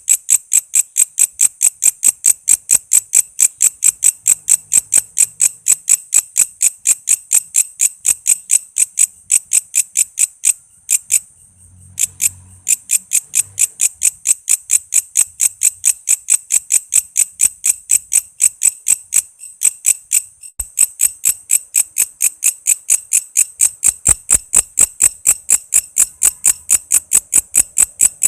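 Walang kece insect calling: a loud, even train of sharp high chirps, about four a second, broken off once for a second or so about eleven seconds in.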